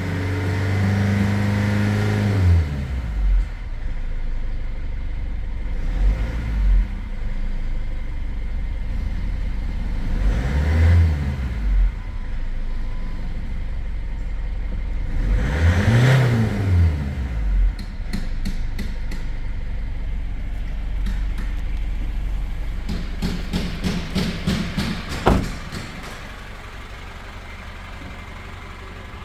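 2014 Foton Tunland's 2.8-litre turbo-diesel engine running at idle and being revved several times, each rev rising and falling back. Near the end comes a run of rapid clicking and a sharp knock, after which the sound drops noticeably quieter.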